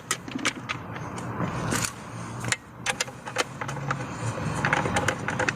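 Irregular sharp clicks and taps of hand tools and small metal parts being handled during wiring work on a pool pump motor, over a steady low hum.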